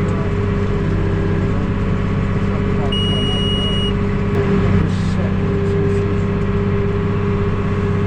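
Tractor engine running steadily under load, pulling a baler, heard from inside the cab. About three seconds in, a single high electronic beep sounds for about a second.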